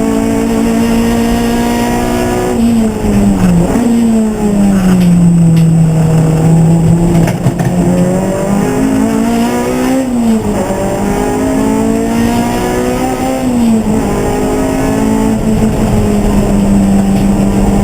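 Race car engine running hard with a steady note that drops about three seconds in as the revs fall. The revs then climb again over several seconds, broken by abrupt drops in pitch, like gear changes, around ten and fourteen seconds in, before the note settles steady.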